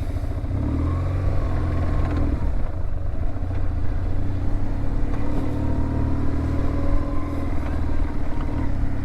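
BMW R1150 GSA's boxer-twin engine running steadily under way, with a slight rise and fall in pitch in the first couple of seconds.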